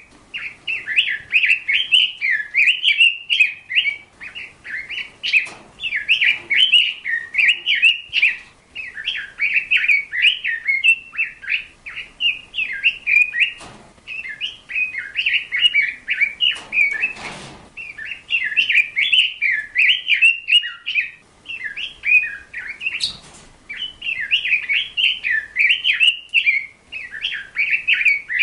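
A songbird twittering in a long, rapid, near-continuous run of quick chirping notes, broken only by brief pauses. A few short rustling noises come in at intervals, the clearest about two-thirds of the way through.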